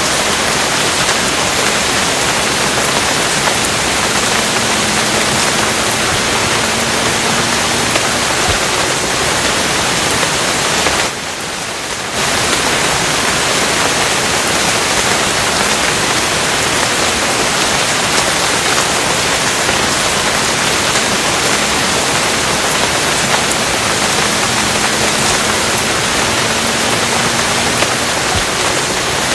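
Steady rain falling as an even, dense hiss, which dips briefly softer for about a second near the middle.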